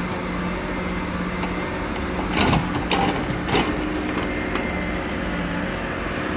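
A heavy logging machine's diesel engine running steadily, with a few short knocks or clanks about two and a half to three and a half seconds in.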